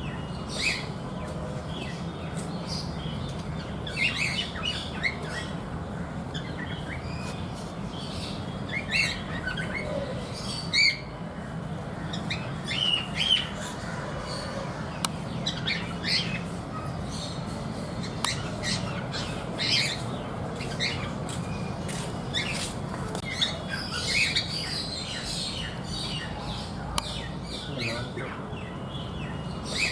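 Cockatiels calling: many short chirps and squawks scattered irregularly over a steady low hum.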